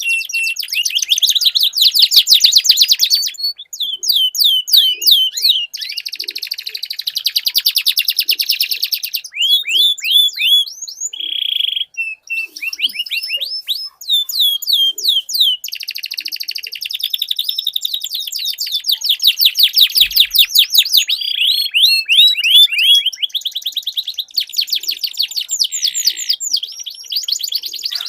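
Domestic canary singing a long, continuous song of fast trills and rolls: rapid runs of repeated down-slurred notes that change speed and pattern every second or two, with a few short steady whistles.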